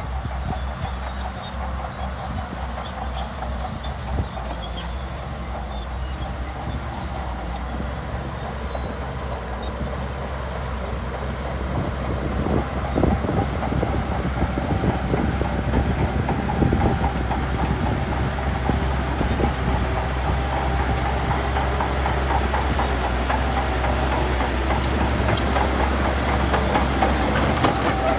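Heavy diesel earthmoving machinery running, a steady low engine drone with dense metallic rattling; it grows louder about halfway through.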